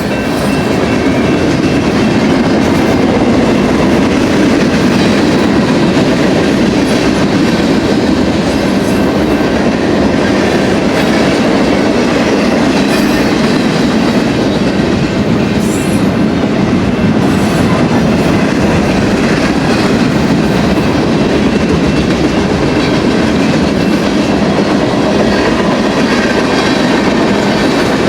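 BNSF manifest freight train rolling past close by, a loud, steady rumble and clatter of steel wheels on the rails.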